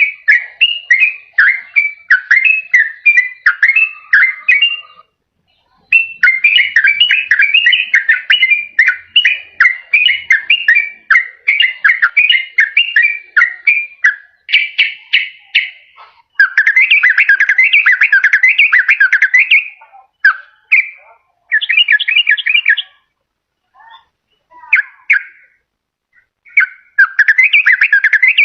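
Sooty-headed bulbul (trucukan) singing: rapid runs of bubbling, chattering whistled notes, with a short pause about five seconds in and broken, patchier phrases a little before the end.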